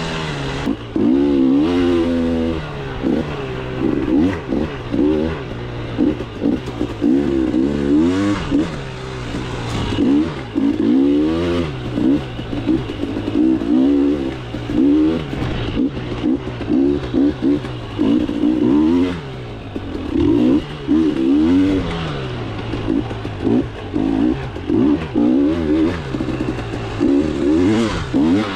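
KTM 300 two-stroke dirt bike engine revving up and down over and over as the bike is ridden along a trail, the throttle opened and closed every second or two.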